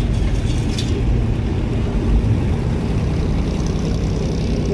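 Car engine running with a steady low rumble, over general traffic noise.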